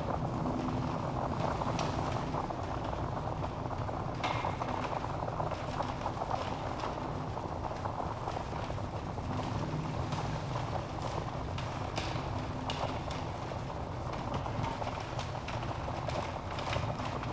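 Wood logs burning in a fireplace: a steady low rushing of the flames with scattered sharp crackles and pops at irregular moments.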